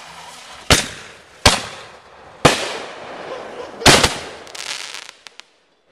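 Fireworks going off: four sharp bangs roughly a second apart, the last a quick double, each trailing off, followed by scattered small crackles. The sound cuts off suddenly near the end.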